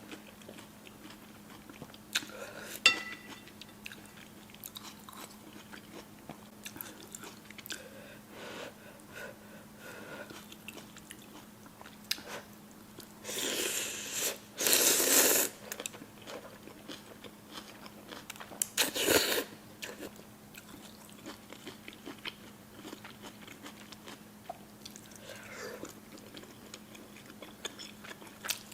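A person eating spicy noodles close to the microphone: chewing and biting, with small clicks and a few louder, second-long noisy bursts about halfway through and again a little later. A faint steady hum sits under it.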